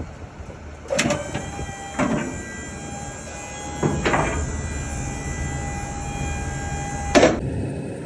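Box truck in motion, with a steady low road rumble and four sharp clunks, the last about seven seconds in; a steady whine rings between the first and last clunk and cuts off suddenly with the last.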